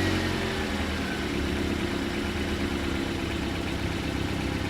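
A car engine idling: its revs drop during the first second, then it settles into a steady idle.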